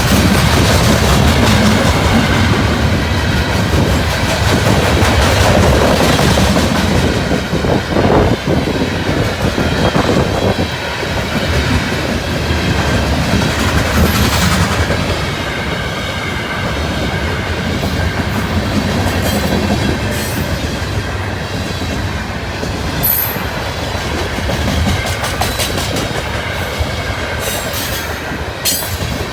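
Freight cars of a CN potash unit train rolling past, the wheels clattering on the rails, with gusty wind buffeting the phone's microphone. A brief high wheel squeal comes near the end.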